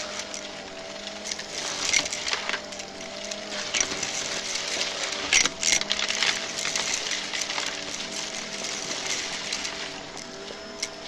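Vacuum cleaner running with a steady motor whine and airflow rush, with short crackles of debris being sucked up at several points, loudest about five seconds in.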